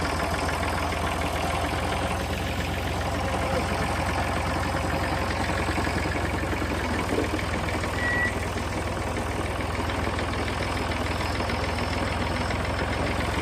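Old Massey Ferguson tractor engine idling steadily, a yard-find tractor that has sat for years and now runs.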